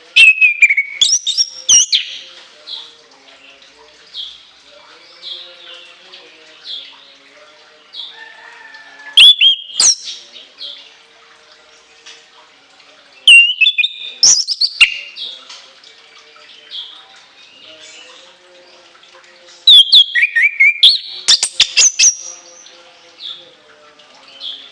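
Orange-headed thrush singing: four loud bursts of shrill, fast whistled notes sweeping up and down, with softer warbled phrases between them.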